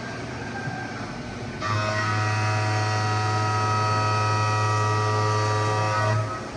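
Haas VF-2SS CNC mill cutting S355 steel. The quieter sound of the machine off the cut changes, about a second and a half in, to a louder steady whine of several tones as the cutter engages the workpiece. It drops back to the quieter level near the end as the tool leaves the cut.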